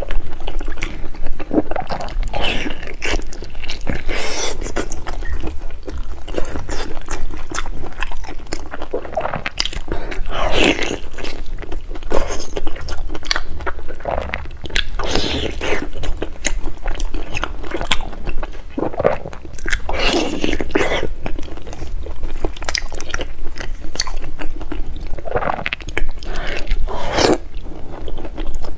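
Close-miked biting and chewing of a piece of fatty pork, a dense, irregular run of mouth clicks and smacks with louder bites every few seconds.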